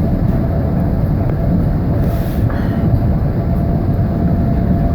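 Interior of a moving electric passenger train: the steady low rumble of the carriage running on the track, with a thin steady hum over it and a brief hiss about two seconds in.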